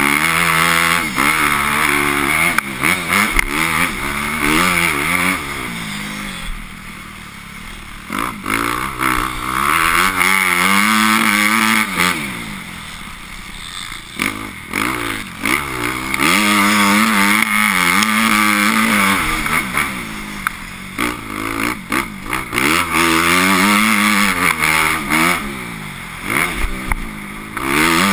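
Motocross bike engine revving hard and backing off over and over, its pitch climbing and then dropping as the throttle opens and shuts. It falls quieter several times before picking up again.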